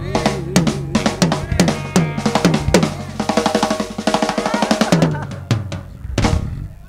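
Drum kit played in a busy fill over the band: sharp snare and bass drum hits, a fast roll in the middle, then a few spaced final hits before the music drops away near the end.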